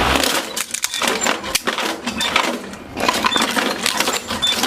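A plastic toy breaking apart: a rapid, irregular run of sharp cracks and clattering pieces.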